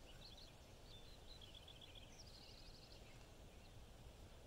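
Near silence outdoors with faint birdsong: a few short chirps near the start, then two brief rapid trills about one and a half and two and a half seconds in.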